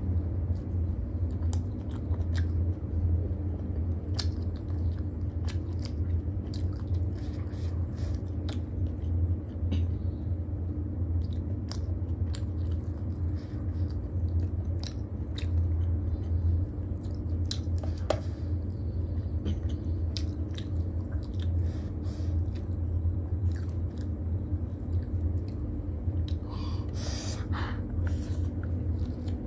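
Close-miked chewing of steamed momos with chutney and chow mein, with many short wet mouth clicks. A steady low hum runs underneath.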